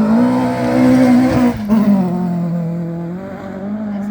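Rally car engine at high revs. It shifts up about one and a half seconds in with a brief break and drop in pitch, then climbs again under acceleration near the end.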